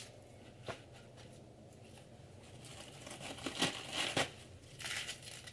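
Salad ingredients and their packaging being handled: scattered rustling and crinkling with a few light clicks, busiest about three and a half to four seconds in.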